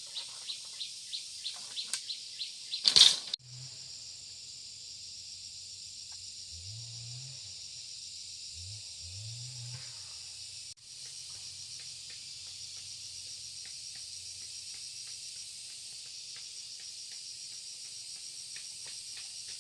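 Insects chirping in a quick rhythmic pulse, then a steady high insect drone. A loud short whoosh or thump about three seconds in is the loudest sound. A few low swelling hums come and go in the background.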